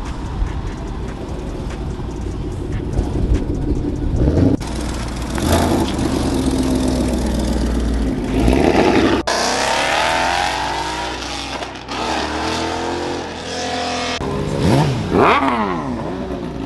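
Car engines revving hard, their pitch climbing and falling several times, with abrupt jumps from one engine to the next.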